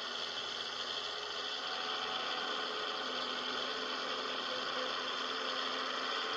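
Scania 111 truck's diesel engine running steadily under way, with a continuous even hiss of road and wind noise over it.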